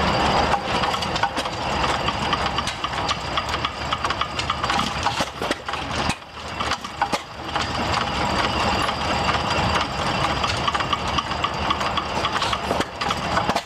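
Antique Sulton stationary gas engine (Whitman Ag, circa 1913) running, with a steady train of mechanical clicks and knocks and a brief drop in level about six seconds in.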